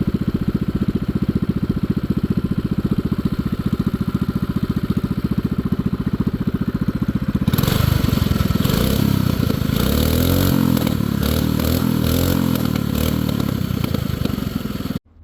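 Axis M200 minibike's 196cc single-cylinder engine, fitted with a stage 1 kit and a 90 main jet, idling with a fast steady pulse. From about seven seconds in it is revved up and down several times, with crackling backfire pops that may come from revving high without the engine under load. The sound cuts off abruptly near the end.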